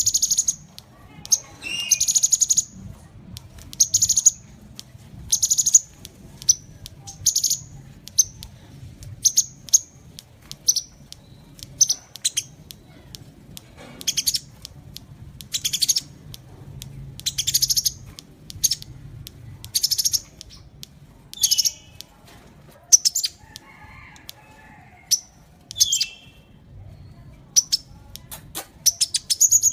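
Sunbird (Indonesian 'kolibri') calling: sharp, high chirps and short trilled bursts repeated about once every one to two seconds.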